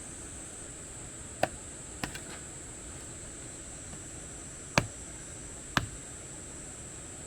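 Firewood being chopped for a campfire: four sharp, separate chopping knocks spread over several seconds, over a steady high hiss.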